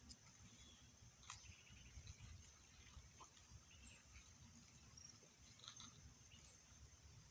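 Countryside ambience: a steady high insect trill, with a short high chirp twice, over a low rumble and a few faint knocks.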